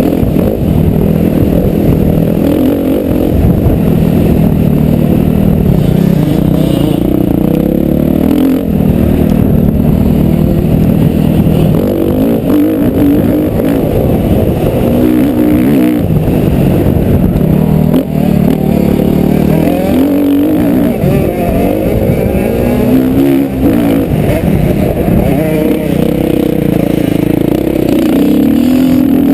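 Motocross motorcycle engine under hard riding, loud throughout, its revs rising and falling again and again.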